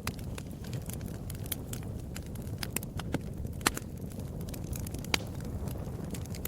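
Fireplace fire crackling, with irregular sharp pops over a steady low rumble of the flames; a few pops stand out louder.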